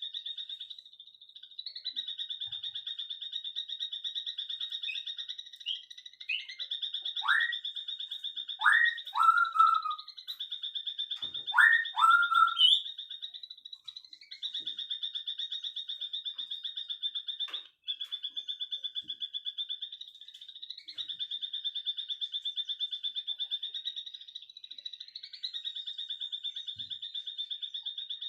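A continuous, rapid, high-pitched trill runs on with a few brief breaks. Over it, a bird gives five loud, short whistled calls that sweep upward, in quick pairs, about seven to thirteen seconds in.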